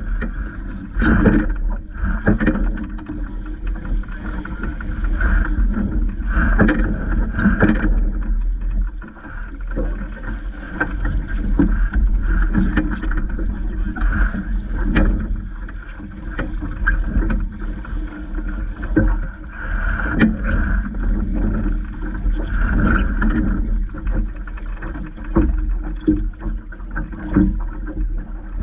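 Water splashing and slapping against a small boat's hull, with many short knocks, while wind buffets the microphone with a low rumble.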